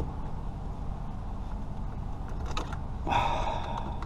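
Plastic trim clips on a 2005 Honda Civic's steering column being forced loose: a few small clicks, then about a second of strained plastic creaking near the end.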